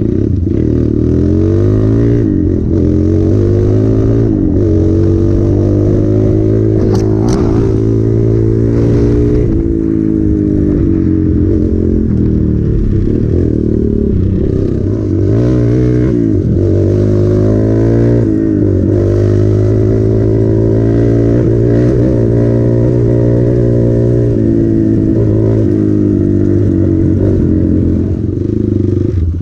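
Hero Impulse single-cylinder motorcycle engine being ridden, its pitch rising and falling over and over as the throttle is opened and closed.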